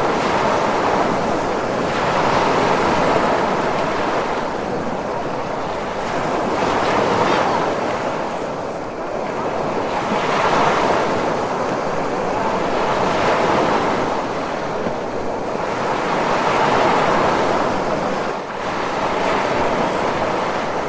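Ocean surf, a continuous wash of breaking waves that swells and eases about every three seconds.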